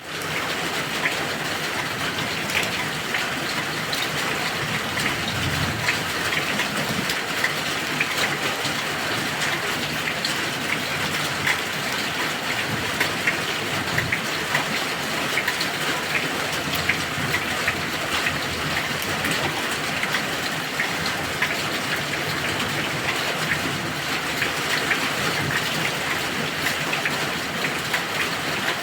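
Heavy rain falling steadily: a dense, even hiss dotted with many sharp individual drop hits.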